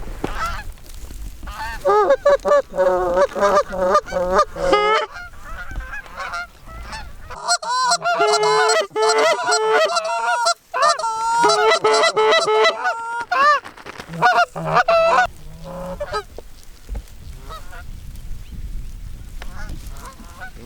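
Geese honking in rapid, loud runs of short calls, one run about two to five seconds in and a longer one from about seven to thirteen seconds, with a few more honks near fifteen seconds before it dies down.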